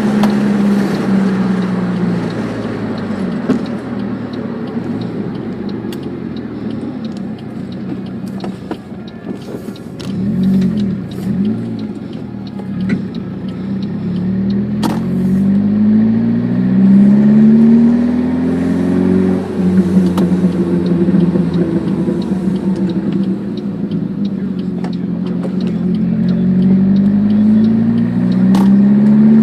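1996 Saab 900 SE Turbo's turbocharged four-cylinder engine through a Cherry Bomb dual side-exit exhaust, driving through the gears. The engine note rises under acceleration and drops back at each shift, with two quick revs about ten seconds in.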